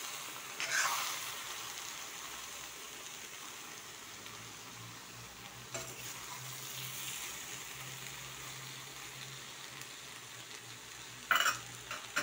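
Sliced potatoes and eggplant sizzling steadily as they are stir-fried with spices in a pan, turned with a metal spatula that scrapes the pan now and then, loudest about a second in and near the end.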